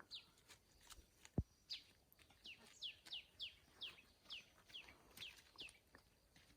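Faint bird chirping: a run of short, quickly falling chirps, about three a second, starting about a second and a half in. Just before the run there is one low thump.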